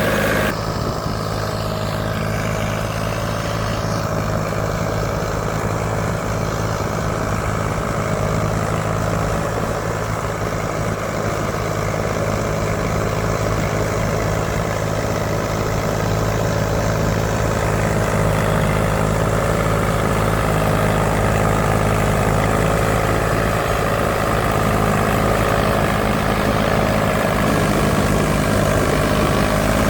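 Same Minitaurus 60 tractor's diesel engine running steadily under a fairly even load, its low throb holding without revving.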